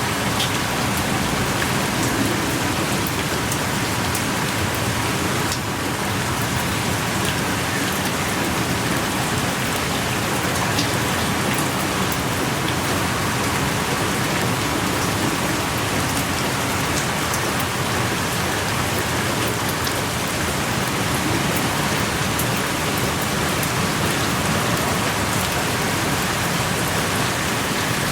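Steady pouring rain, heard from inside a small cave, with scattered sharp drops ticking through the even hiss.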